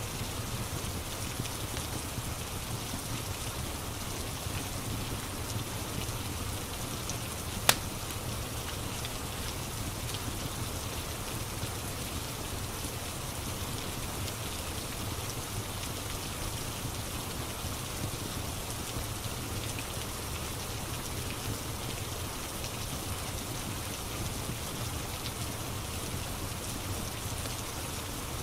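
Steady rain ambience, an even hiss of rain falling, with a single sharp click about eight seconds in.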